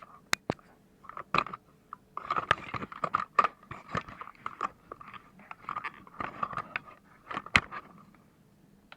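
Sharp clicks and a run of crackling, scraping handling noise as a car radio's buttons are pressed and the unit is handled, quieting near the end.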